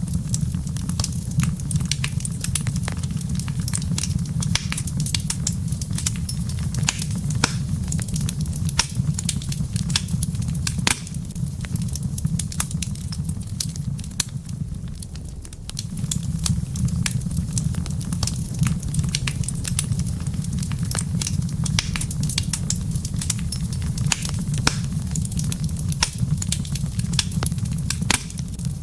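Wood fire burning in a fireplace: irregular sharp crackles and pops over a steady low rumble. The rumble eases for a few seconds about halfway through, then returns.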